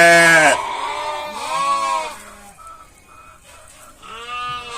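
Sheep bleating: a loud, quavering bleat at the start, a second, quieter bleat about a second and a half in, and a third near the end.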